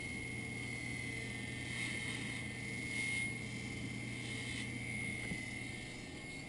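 Jeweler's polishing motor running with a buffing wheel spinning while a platinum ring is buffed on it with rouge: a steady low hum with a high whine over it. The hum drops away near the end.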